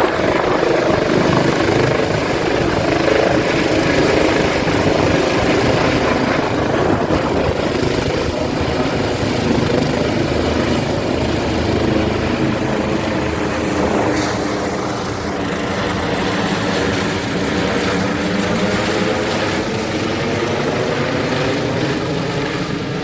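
Trauma helicopter running loud and steady, its rotor beat carrying a stack of tones over a broad rush of turbine and blade noise, dipping slightly in level about halfway through.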